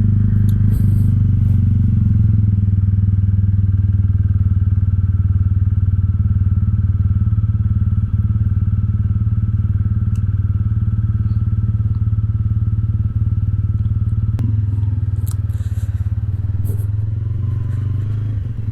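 TVS Ronin motorcycle's single-cylinder engine idling steadily, being warmed up before the ride.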